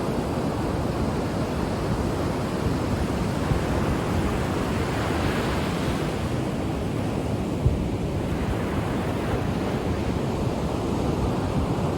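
Ocean waves breaking and washing up the shore, a steady rush with one wave's wash swelling up through the middle. There is a brief low thump a little past halfway.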